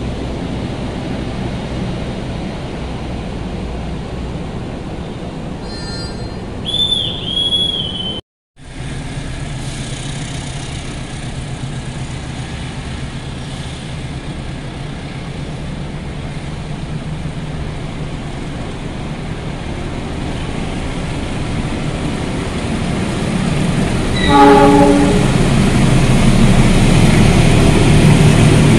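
A passing passenger train runs with a steady rumble, and short high-pitched horn blasts sound about seven seconds in. After a break, a diesel locomotive hauling a long passenger train on a shunting move sounds a deeper horn about 24 seconds in, and the rolling carriages grow louder as they pass close by.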